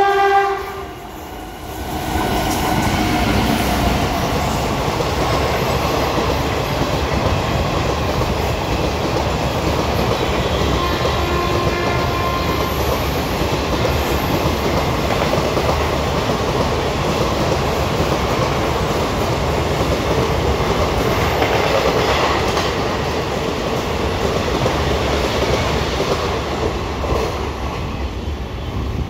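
Passenger train running through at speed behind a WAG-9HC electric locomotive: a horn blast cuts off at the very start, then the coaches rush past in a steady loud rail noise. The noise eases a little near the end as the last coach draws away.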